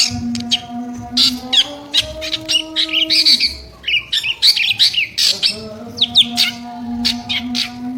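A drongo singing fast: a dense string of sharp, harsh chirps and quick whistles, over a steady low hum that shifts pitch slightly and fades out for a while mid-way.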